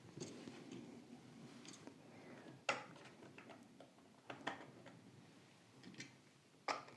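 Faint, scattered light clicks and taps, about five spread through, from a small 1/64-scale diecast model car being handled.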